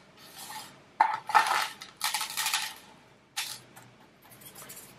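Gritty lava-rock and pumice potting mix rattling and crunching as it is handled, in several short bursts of scraping and clinking.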